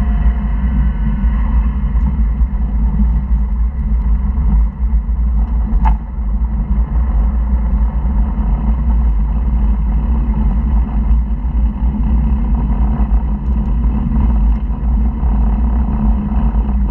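Porsche flat-six engine and road noise heard from inside the cabin while driving on track, a loud steady drone, with a single sharp click about six seconds in.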